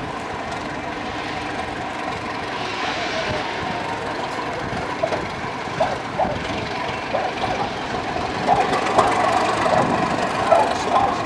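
A passenger train running slowly along a station platform: steady running noise, with short wheel squeals in the second half.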